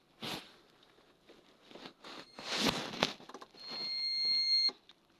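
Handling rustles, then a steady high-pitched electronic whine from a fan's soft-start circuit as it ramps power up. The whine grows louder for about a second and cuts off suddenly near the end.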